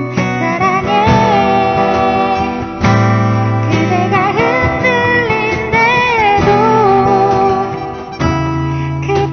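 Acoustic guitar playing chords while a singer sings the melody.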